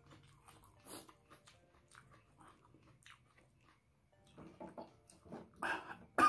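A person chewing food close to the microphone, with small crunches, then a run of louder crunching sounds in the last two seconds.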